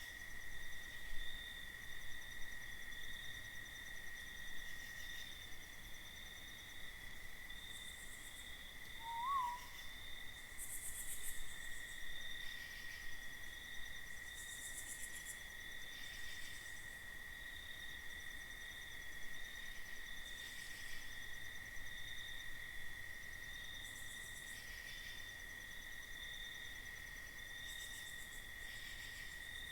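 Steady chorus of night insects holding one high, even drone, with one brief rising-and-falling call about nine seconds in.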